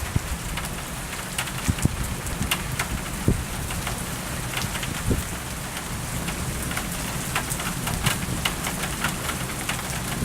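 Steady rain during a thunderstorm, with many individual drops ticking sharply close by and a low rumble underneath.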